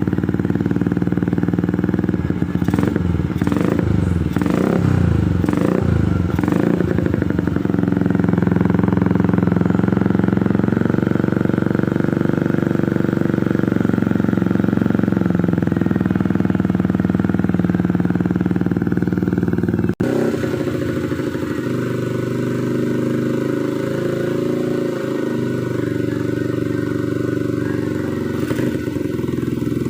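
Motorcycle engine running through an aftermarket WRX exhaust: it is blipped several times in the first few seconds, rising and falling in pitch, then holds a steady run. After an abrupt break about two-thirds through, it settles into a steady idle.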